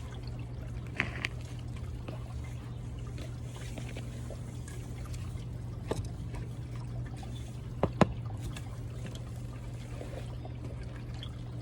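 Repotting sounds: pots and soil being handled, with scattered small knocks and scrapes over a steady low hum. The loudest knock comes about eight seconds in.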